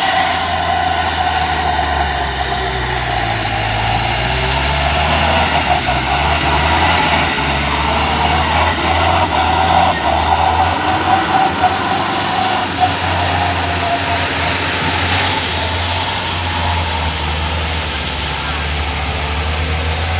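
Heavy diesel engine running under load. Its pitch rises and falls a few seconds in, then holds fairly steady.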